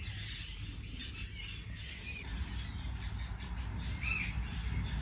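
Birds calling outdoors: a few short calls, about one every two seconds, over a low steady rumble.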